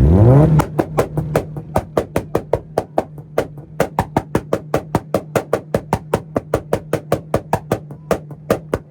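Honda Civic engine revved up quickly, then held on its two-step launch-control rev limiter, cutting out in sharp, even pops about four to five times a second. The pops stop near the end.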